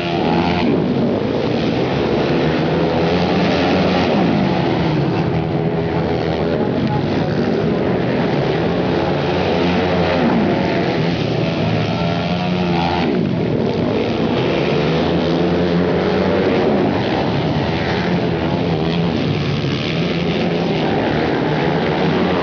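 Flat-track racing motorcycle engines at race speed, several bikes on the throttle at once, their pitch sweeping up and down again and again as they pass and go through the turns.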